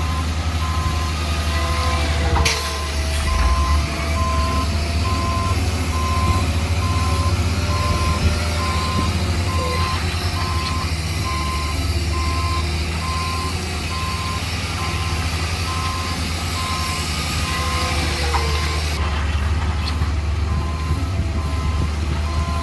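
Reversing alarm on a heavy construction vehicle beeping steadily in an even on-off rhythm, over the low drone of its diesel engine running. A short sharp knock sounds a couple of seconds in.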